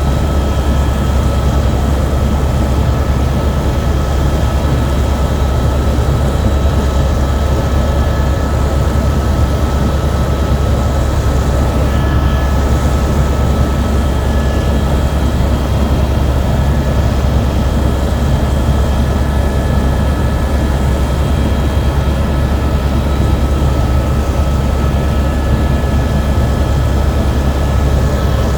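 Helicopter in flight heard from inside the cabin: a loud, steady drone from the rotor and engine, with a few thin, steady whining tones above it.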